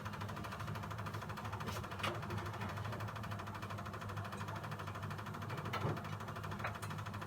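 Steady low hum of a small running motor, with a few faint clicks about two seconds in and again near the end.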